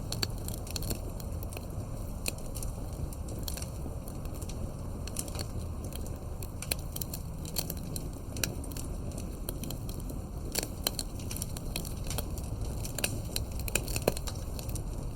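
Campfire of burning firewood crackling, with frequent irregular sharp pops and snaps over a steady low rumble of the flames.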